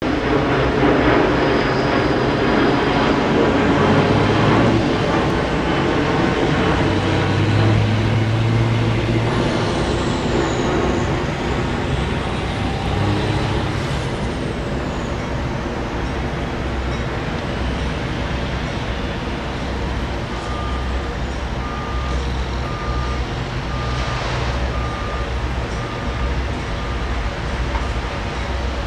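A train running past, with a heavy engine rumble and rail noise, loudest in the first half. A steady electronic beeping starts about twenty seconds in and repeats about one and a half times a second.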